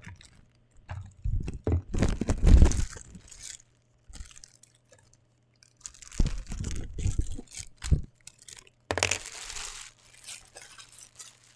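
Packaging being handled and opened: crinkling, crunching and tearing in three loud bursts, about a second in, about six seconds in and about nine seconds in.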